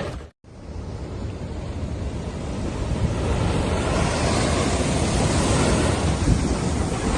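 Heavy sea surf rushing and breaking in a steady loud wash, with wind buffeting the microphone. It builds over the first couple of seconds after a short cut.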